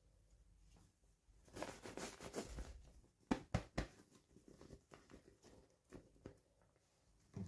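Packaging crinkling as it is opened, then a few sharp clicks and light taps of small plastic pieces being handled.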